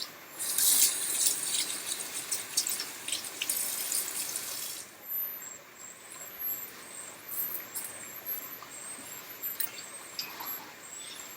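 Kitchen tap running with a splashing hiss for about four and a half seconds, then shut off suddenly; faint crickets chirp in a steady rhythm throughout.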